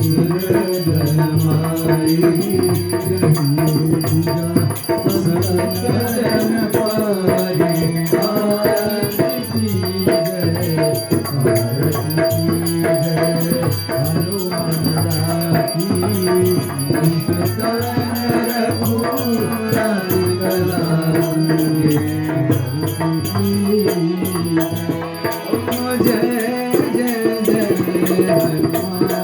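Arti, a Hindu devotional hymn, sung as a steady melody over continuous hand percussion with a rattling shaker.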